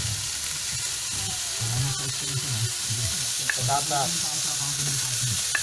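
Pork, tomatoes and onions sizzling in a pan with a steady frying hiss. A few utensil clinks come in the second half as chunks are pushed off a plate into the pan.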